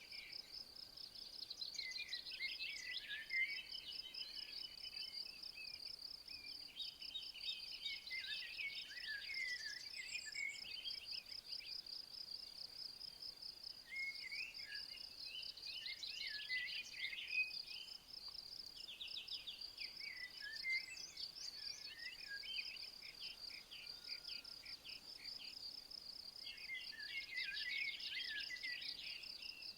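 An insect trills steadily in fast, even pulses. Phrases of bird song break in about five times, each lasting a few seconds.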